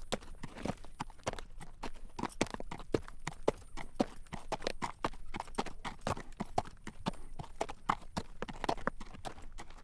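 Horse walking while drawing a carriage, its hooves clacking on the road in a steady clip-clop, several hoof strikes a second.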